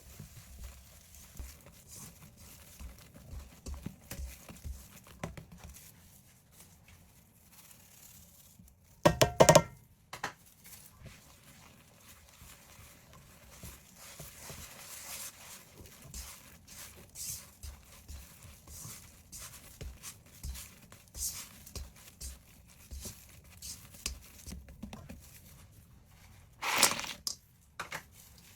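Rustling, crinkling and light clicks of food and utensils being handled during cooking preparation, with a short loud harsh sound about nine seconds in and another near the end.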